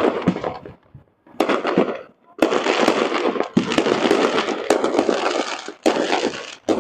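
Fireworks display: sharp bangs of shells bursting, followed by long stretches of dense crackling. The sound dies down briefly about two seconds in, then picks up again with several bangs.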